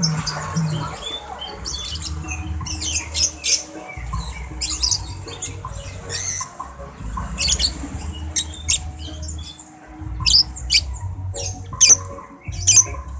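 Cage birds chirping and squawking: many short, high chirps in quick succession, over a low, on-and-off rumble.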